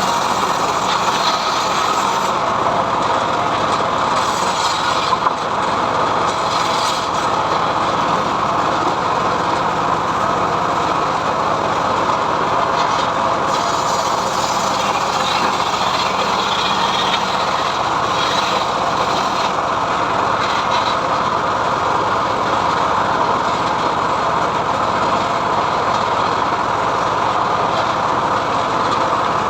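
Homemade engine-driven sawmill running steadily while its blade rips lengthwise through mahogany wood, a continuous loud machine noise without let-up.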